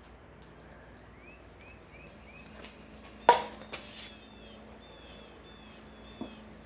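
A plastic wiffle ball bat sharply cracks against a wiffle ball once, about three seconds in, followed by a couple of lighter knocks. Faint short high chirps sound in the background.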